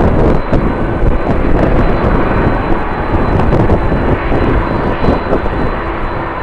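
Jet airliner engine noise with a faint steady whine, mixed with strong wind buffeting the microphone in an uneven low rumble.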